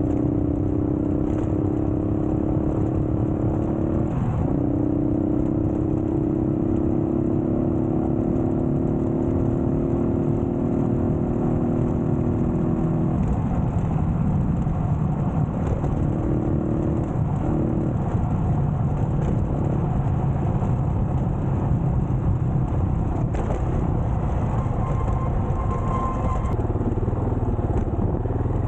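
Yamaha motorcycle engine running hard off-road, its pitch climbing slowly for about the first dozen seconds and then going rougher and uneven as the ride goes on.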